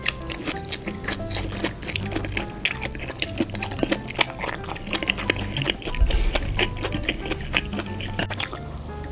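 Close-miked chewing of kielbasa sausage in a creamy sauce: wet, squishy mouth sounds with many small crackles and pops from the sausage's tough, chewy casing. Soft background music plays underneath.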